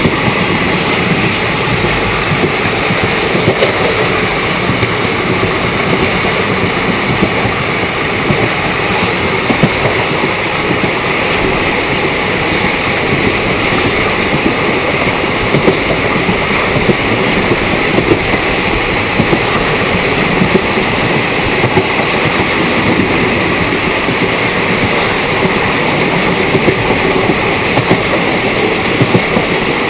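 Indian Railways train running at speed, heard through an open carriage door: a steady rumble of wheels on the rails with frequent small clattering knocks.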